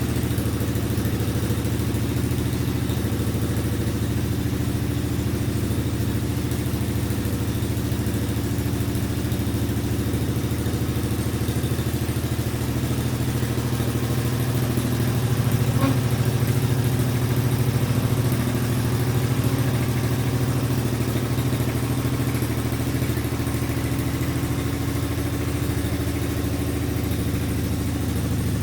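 Engine with open exhaust stacks idling steadily, a little louder for a few seconds past the middle. It is being left to run after sitting unused since December.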